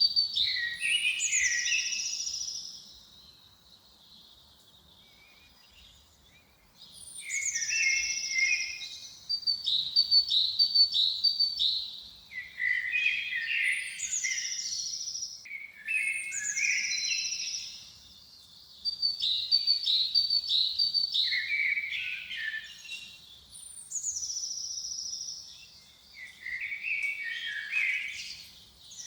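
Songbird singing in repeated phrases, each a run of quick high notes, a falling sweep and then lower warbled notes. The phrases come every few seconds, after a pause of about four seconds near the start.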